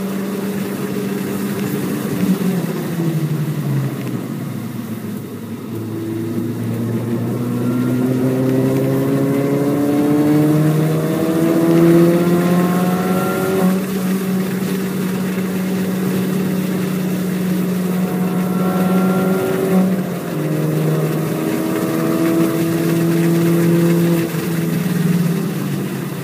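Supercharged four-cylinder engine of an R53 MINI Cooper S driven hard on track, heard from inside the car. The revs climb steadily for several seconds, drop back, hold steady for a while, then climb again near the end.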